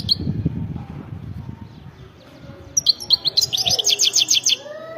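European goldfinch singing: a short chirp, then about two seconds in a quick burst of a dozen or so high twittering notes, over a low background rumble.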